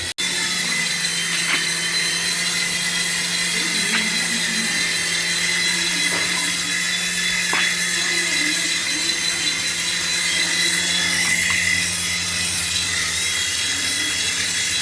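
Small electric motor of a toy whirring steadily at high speed, starting just after a momentary break at the very beginning.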